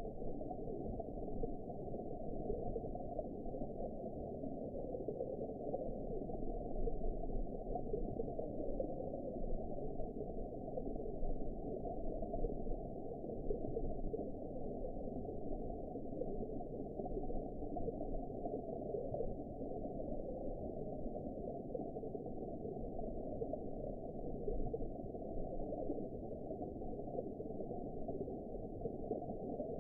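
Muffled underwater ambience: a steady low rush of water with nothing heard above the low and middle range, no distinct events.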